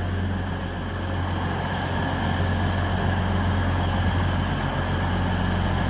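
Diesel multiple unit engine idling at a station: a steady low hum with a faint high whine above it.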